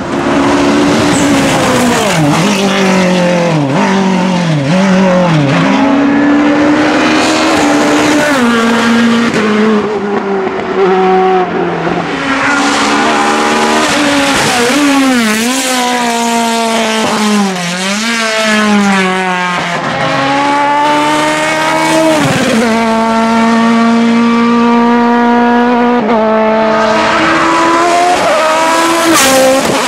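Hillclimb race car engine at full throttle, its pitch climbing and dropping sharply again and again as it shifts through the gears, with quick dips where it brakes and downshifts for corners and a few stretches held at a steady pitch.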